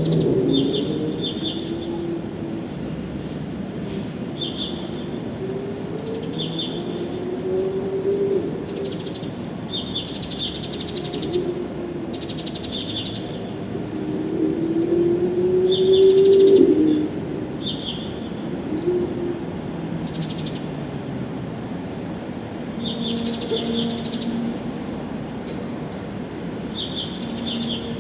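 Birds chirping in short, high, repeated phrases every second or two, over a low wavering hum that slides in pitch and swells about fifteen seconds in.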